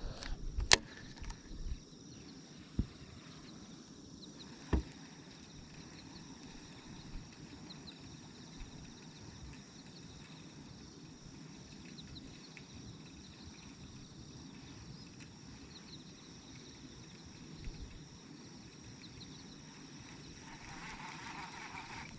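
Faint outdoor ambience with a steady high insect chirring, broken by a few sharp knocks in the first five seconds.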